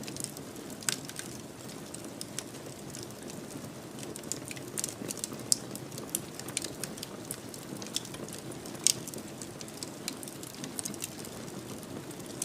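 Wood fire crackling in a fireplace: irregular sharp pops and snaps over a soft, steady rush of flame. Two louder pops come about five and a half and nine seconds in.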